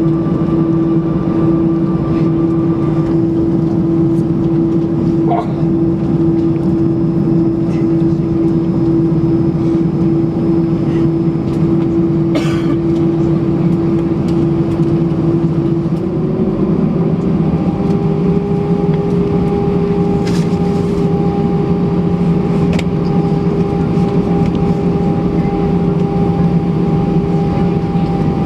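Airbus A320 cabin noise: the jet engines hum steadily with a whine that steps up slightly in pitch just over halfway through, with a few faint clicks.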